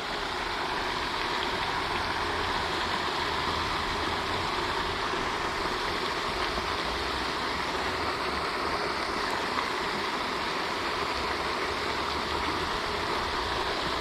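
Pond fountain splashing steadily, a constant hiss of falling water.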